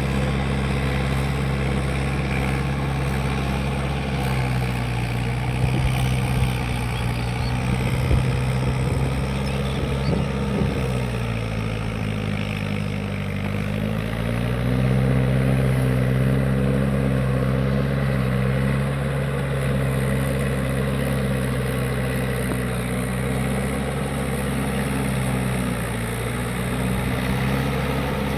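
Mahindra 585 tractor's diesel engine running steadily. About eleven seconds in, its pitch sags, then it picks back up a few seconds later.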